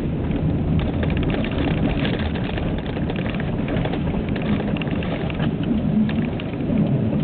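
Inside a Pontiac Vibe while driving: steady engine and road noise with a low rumble, sprinkled with many small crackles.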